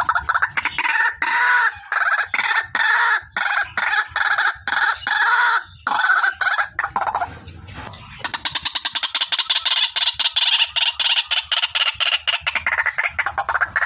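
Female white-breasted waterhen (ruak-ruak) calling: a series of loud, harsh calls at about two a second, then from about eight seconds in a fast run of short repeated notes.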